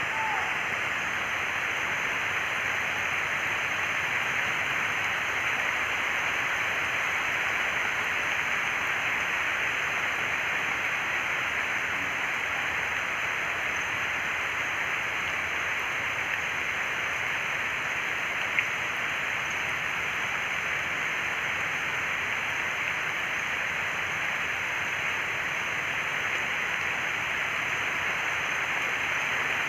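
Steady rushing of water, even and unbroken, starting suddenly at the beginning.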